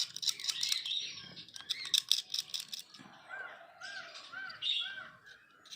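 A quick run of sharp clicks and taps for about three seconds, then a bird calling in the background with a series of about four short arched chirps, evenly spaced.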